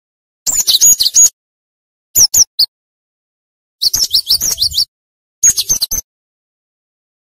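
Cinereous tit (gelatik batu) singing fast, four bursts of sharp, high chirping notes, many of them quick downward slides, separated by short pauses.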